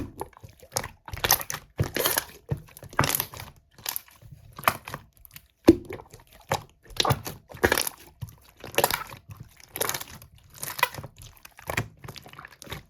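Slime being squished and pressed by hand, giving irregular crinkly, crackling squishes about once or twice a second.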